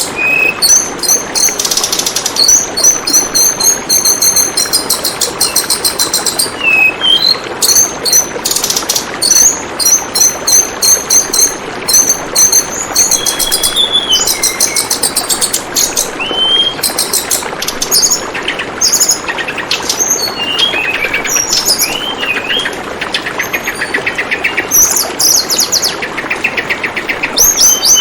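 Tledekan bambu bird singing rapid series of high chirps and trills, with short rising and falling whistles between them, over a steady trickle of flowing water.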